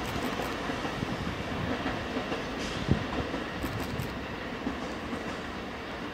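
Electric commuter train running on the line, a steady rumble of wheels on rail with wheel clatter over the track joints and points, and one sharp loud clack about three seconds in.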